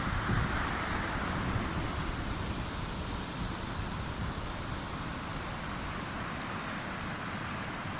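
Steady rushing of a fast-flowing mountain river, the Bhagirathi, with wind on the microphone.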